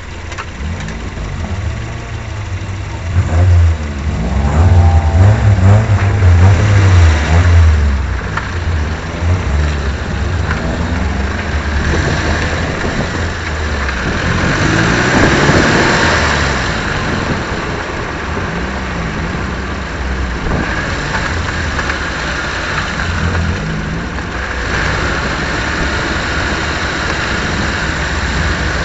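Suzuki Swift race car engine picked up by a low-mounted onboard camera, revving up and down several times in the first few seconds, then running more steadily and quieter at lower speed, with wind and tyre noise over it.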